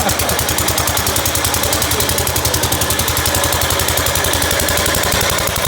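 Walk-behind garden tractor engine running steadily, a fast even putt of firing pulses, with the machine engaged in forward.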